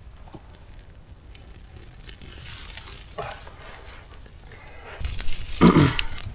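Faint crackling and rustling as a small fire is started with fatwood shavings; about five seconds in it turns into a louder rush of noise.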